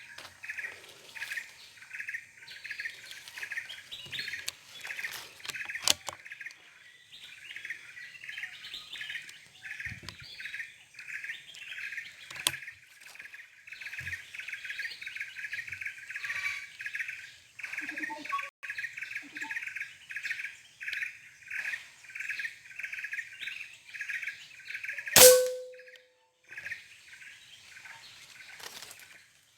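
Birds calling around a fruiting banyan tree: one high chirp repeated steadily about two to three times a second, with other scattered calls. About 25 seconds in, a single sharp air-rifle shot.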